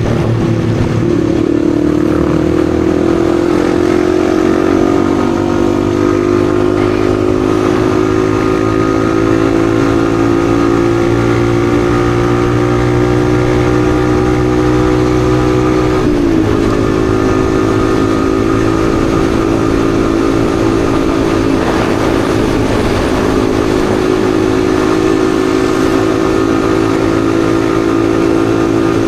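Yamaha XSR155's 155 cc single-cylinder engine pulling under way, its pitch climbing slowly for about fifteen seconds. It then drops sharply as it shifts up a gear and runs on at a steady pitch.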